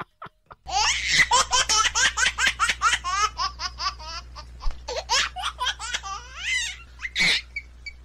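A person laughing hard: a long run of quick, high-pitched ha-ha pulses that starts under a second in and tails off near the end, with a steady low hum under it.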